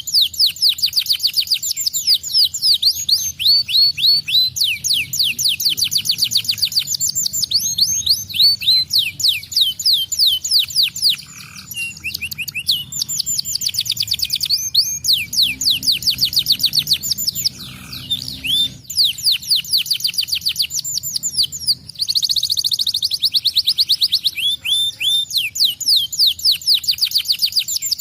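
Domestic canary singing vigorously: fast, nearly continuous trills of rapidly repeated high, falling notes. The song switches from one trill pattern to the next every few seconds, with brief pauses about a third and two-thirds of the way in.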